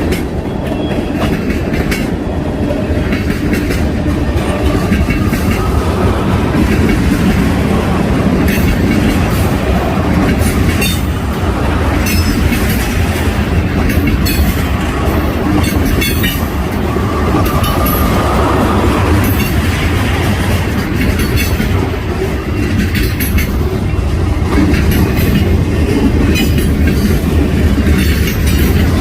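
Freight train cars rolling past loudly and steadily, wheels clicking over rail joints, with a faint brief wheel squeal about two-thirds of the way through.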